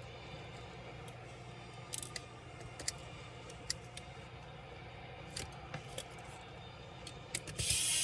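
Scattered light clicks and taps from small parts and tools being handled during a laptop teardown, over a low steady hum. Near the end a loud hiss cuts in suddenly.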